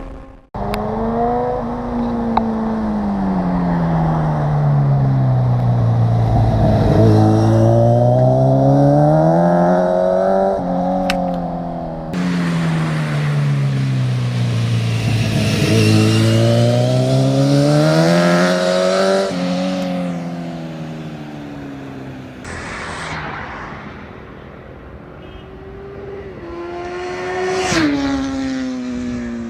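Kawasaki Z900's inline-four engine through an Akrapovic carbon full-system exhaust. The revs rise and fall in long slow sweeps, with a sudden drop in pitch twice, like gear changes. The sound fades for a few seconds, then rises in a quick sharp rev near the end.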